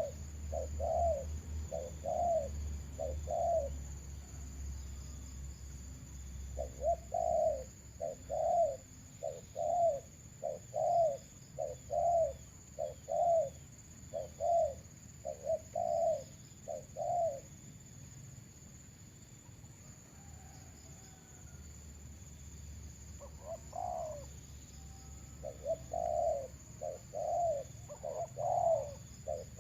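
Doves cooing in long runs of short, evenly repeated low calls, a little under two a second, with pauses of a few seconds between runs.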